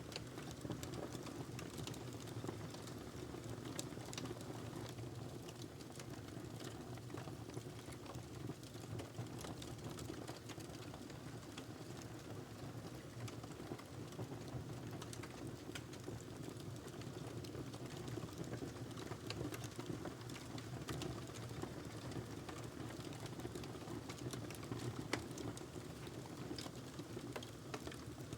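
Log fire burning with a steady low rumble and frequent small, irregular crackles and pops.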